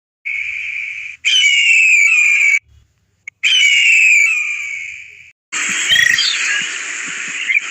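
Three separate high-pitched bird calls, each sliding down in pitch and cut off abruptly, followed from about five and a half seconds in by a dense steady chorus of frogs and insects.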